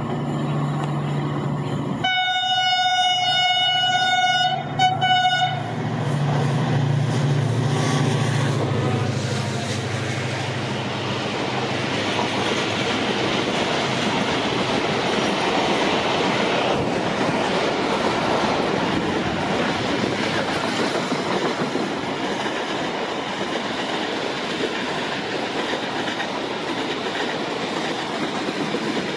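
HGMU 30 diesel locomotive sounding its horn, one blast of about two and a half seconds and then a short second one, over its engine running. The express train's coaches then roll steadily past on the rails at reduced speed, slowed by braking after the signals went off.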